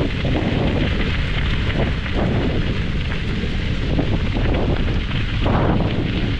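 Wind buffeting the microphone: a loud, rough, unbroken rumble with no clear tone.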